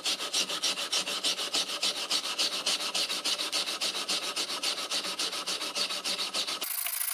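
Fast, even rasping strokes of a hand tool rubbed back and forth against a surface, about seven a second. About six and a half seconds in it cuts abruptly to a steady hiss.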